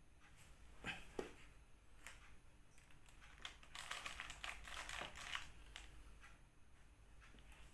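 Faint handling noises: a few light taps and clicks, with a short stretch of crinkling rustle about four to five seconds in.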